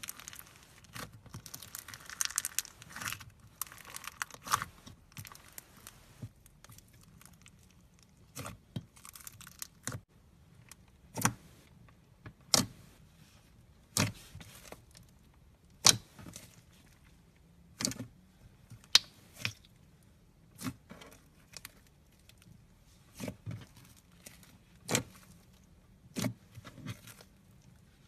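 Foam-bead slime being squeezed and pressed by hand: a crinkly crackle for the first few seconds, then a run of sharp, separate pops and clicks about every one to two seconds as the beads and air pockets burst.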